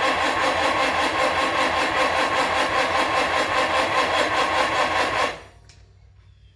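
Cub Lo-Boy tractor engine being cranked over by its starter in an even, rapid rhythm without firing, then cutting off suddenly about five seconds in. The rebuilt engine turns over but does not catch.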